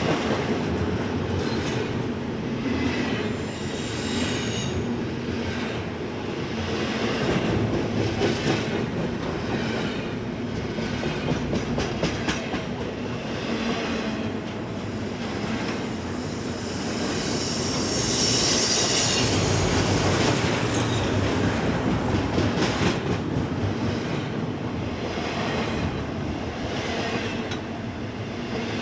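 BNSF freight train cars rolling past on steel wheels, clicking over rail joints, with a thin, very high wheel squeal that swells to its loudest about two-thirds of the way through.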